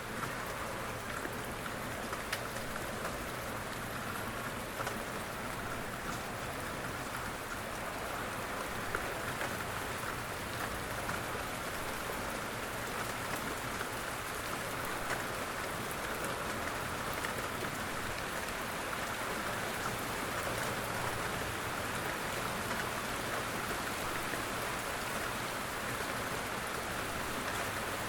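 Steady rain falling, an even hiss with a few sharper ticks scattered through it.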